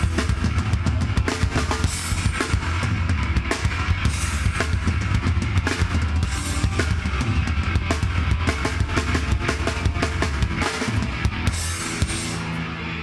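Live heavy band playing an instrumental passage: a drum kit with rapid bass-drum strikes, snare and cymbals over heavy bass and guitar. About twelve seconds in the drums stop and a guitar is left ringing.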